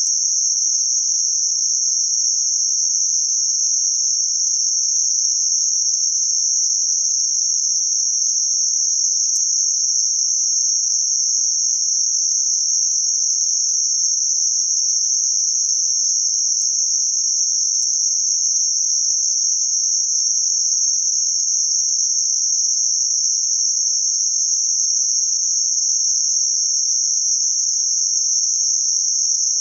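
Synthetic band-limited noise centred near 6 kHz, a steady high-pitched hiss with nothing below or above the band, unchanging throughout.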